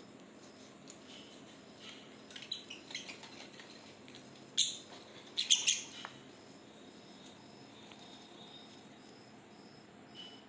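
Pet lovebirds chirping in short scattered bursts, loudest for a few chirps around the middle. Under them runs a faint, even, high pulsing about twice a second.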